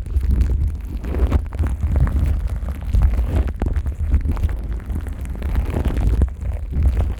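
Plastic wrap stretched over a KU100 dummy-head microphone, crinkling and rubbing as rubber-gloved hands work it over the ears. There is a deep, muffled rumble from the handling close to the mic, with irregular crackles on top.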